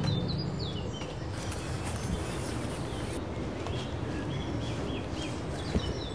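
Woodland birds chirping, short falling calls repeated throughout over a steady outdoor background hiss. The tail of plucked-string music fades out in the first second.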